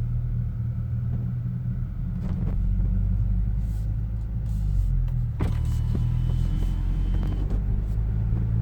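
Kia Stinger engine through an aftermarket NGM axle-back exhaust, heard from inside the cabin: a steady low rumble as the car gets under way at low speed. About five seconds in there is a click, followed by a faint high tone lasting about two seconds.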